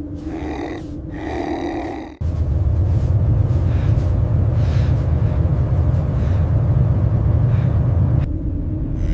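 Short pitched animal growling cries, three in quick succession, then an abrupt cut about two seconds in to a loud, deep, steady rumble that eases off near the end.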